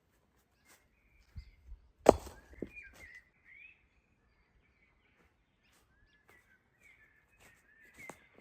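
A small bird chirping in short rising and falling notes, with a sharp knock about two seconds in, the loudest sound, followed by a couple of lighter knocks.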